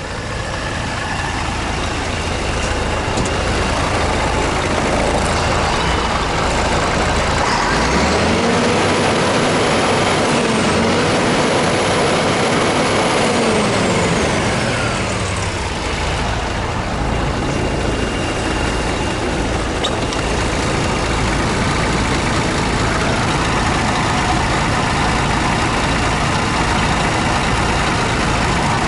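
Scania R124-470 truck's straight-six diesel running, then revved: the engine note rises about a quarter of the way in, dips briefly, climbs again and holds with a high whine, then falls back to idle around the middle.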